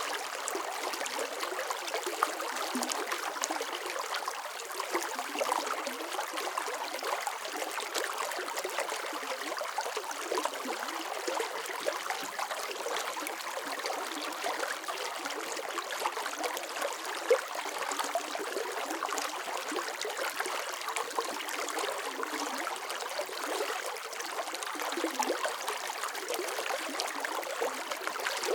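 Running water flowing and trickling steadily, with many small splashes and gurgles.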